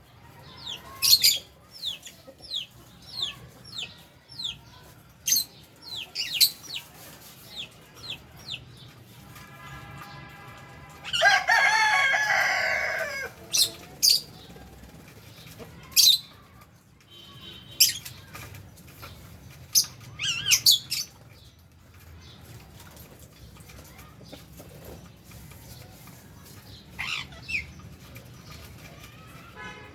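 Lovebirds and budgies in an aviary, giving sharp, high chirps and shrieks scattered throughout, with one long, loud call about eleven seconds in.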